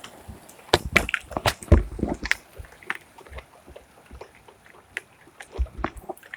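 Rainwater dripping and splashing during a thunderstorm: sharp irregular taps and splats at uneven intervals, thickest in the first two seconds, then sparser.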